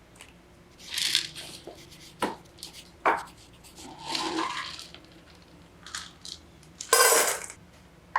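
Household handling sounds, most likely kitchenware: a few sharp clinks and knocks, with short swishing or rustling sounds about a second in, around four seconds in, and loudest near the end.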